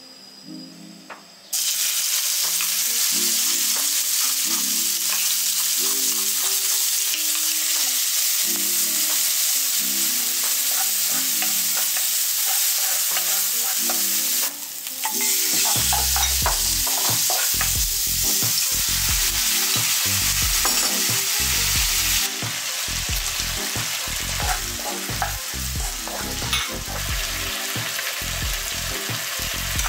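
Chopped garlic and bird's eye chillies sizzling hard in hot oil in a stone-coated wok, starting suddenly about a second and a half in, stirred with a wooden spoon. In the second half shrimp are stir-fried, and the spoon knocks and scrapes against the pan in quick repeated strokes over the sizzle.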